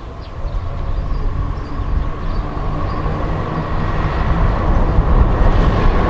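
Low rumble of a vehicle approaching through town-street ambience, growing steadily louder, with a faint steady whine above it.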